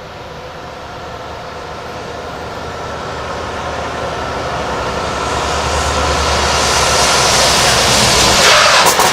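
Volvo FH tractor-trailer running with a steady engine note and low rumble that grows steadily louder, then a sudden rush of hissing noise near the end.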